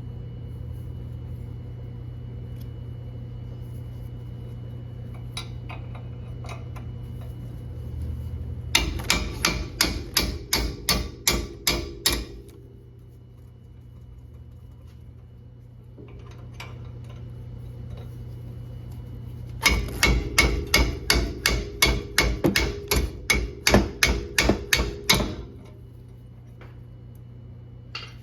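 Rapid hammer blows, about four a second, in two runs, the second longer than the first. A steady low hum runs underneath.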